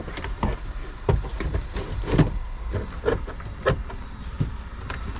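Irregular light clicks and knocks, about a dozen, from a component being handled and worked back into place by hand in the car's interior during ignition switch reassembly, the loudest knock about two seconds in.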